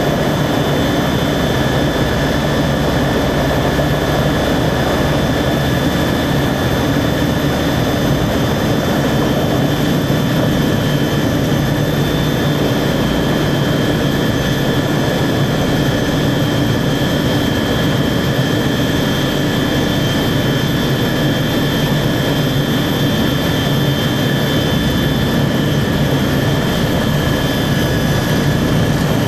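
Helicopter in flight, engine and rotor running steadily, with steady high-pitched whine tones over a dense low drone.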